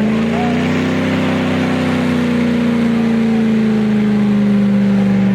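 Car engine held at high, steady revs, its pitch rising slightly at first and then holding level, as at a car-meet burnout or donut.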